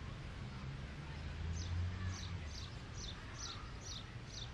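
A small bird chirping: a run of about seven short, high chirps, each sliding downward, about two a second, starting about a second and a half in. A steady low rumble runs beneath.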